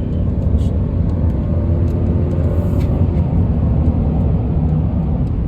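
Steady low rumble of a motor vehicle running, with a few faint light clicks.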